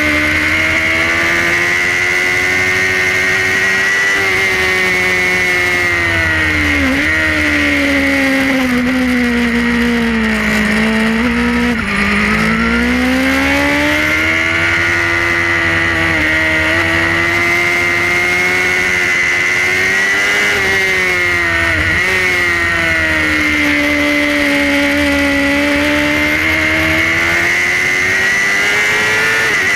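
Onboard sound of a Suzuki GSX-R racing motorcycle's inline-four engine held at high revs, under steady rushing noise. The revs sink slowly to their lowest about eleven seconds in, then climb for several seconds. Short sharp dips about seven and twenty-two seconds in.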